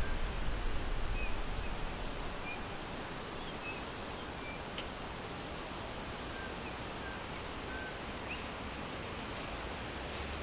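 Forest ambience: a steady rustling hiss, with short faint bird chirps scattered throughout. A low rumble fades out over the first couple of seconds.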